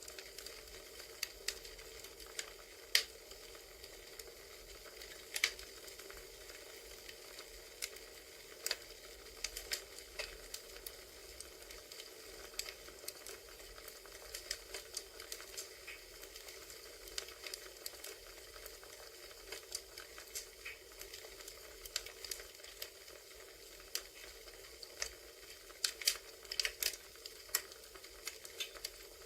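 Campfire crackling: a steady hiss with irregular sharp pops and snaps, which grow more frequent near the end.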